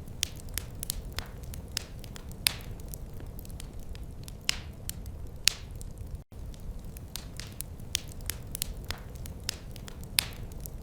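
Wood fire crackling in a fireplace: irregular sharp pops and snaps, a few much louder than the rest, over a low steady rumble of flame. The sound cuts out for an instant about six seconds in.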